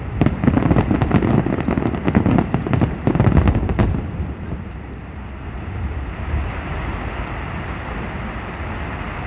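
Aerial firework shells bursting overhead in quick succession, with rapid bangs and crackling. About four seconds in the bangs stop, leaving a steady background noise.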